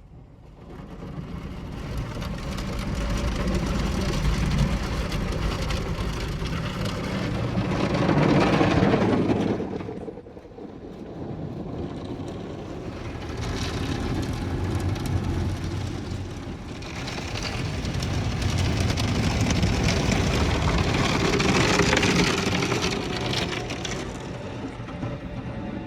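PDQ ProTouch Tandem touchless car wash spraying high-pressure water over the car, heard over a low steady rumble. The spray swells, drops away about ten seconds in, then builds again.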